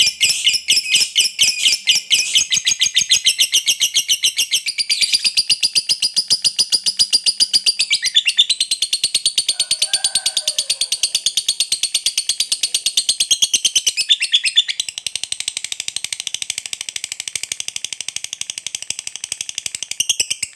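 Lovebird's long 'ngekek' chatter: an unbroken, rapid string of sharp, high chirps, about ten a second. It shifts pitch several times and gets a little softer in the last third.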